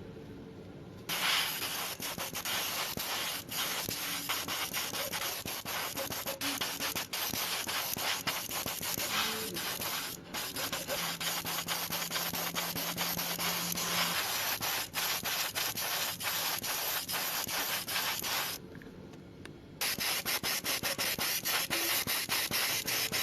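Sanding: rapid, continuous rubbing strokes of abrasive on a surface. It starts about a second in, breaks off for about a second near the end, then resumes.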